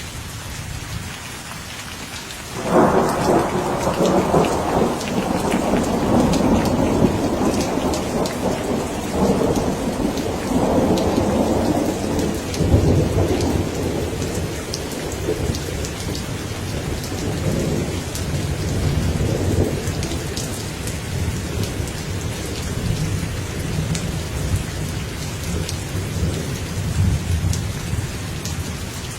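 Steady rain, with a clap of thunder about three seconds in that rolls and rumbles in waves and slowly fades over about ten seconds, leaving the rain.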